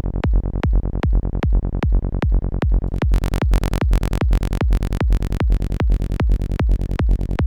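Forest psytrance bassline synthesised in Serum 2 from a gritty saw oscillator, playing a fast, even run of short, punchy bass notes. About three seconds in the notes turn much brighter and harsher, then dull again near the end.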